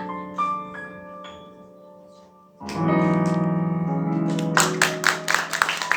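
Piano closing the ballad: a few high single notes that die away, then a final chord held and ringing. Audience applause breaks out over the ringing chord in the last second and a half.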